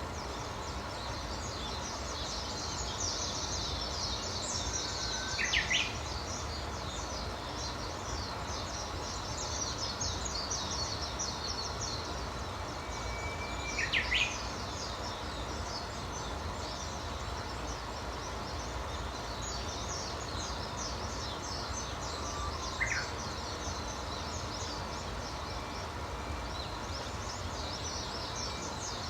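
Outdoor birdsong: a constant high chirping chorus, over which one bird sings three times, about eight to nine seconds apart, each a held whistled note ending in a quick rising flourish. A low steady rumble lies underneath.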